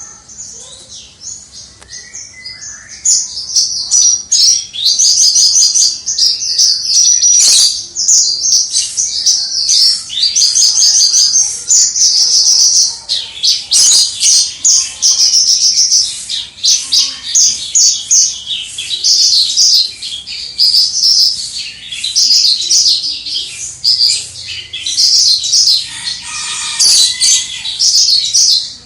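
Javan bush lark in full song: a long, rapid run of high chattering and clear whistled notes, softer for the first few seconds, then loud with only brief pauses.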